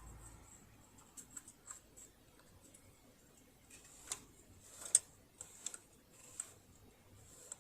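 Scattered light clicks and taps, the sharpest about five seconds in: hands and tools handling the metal parts of a sewing machine being taken apart and oiled.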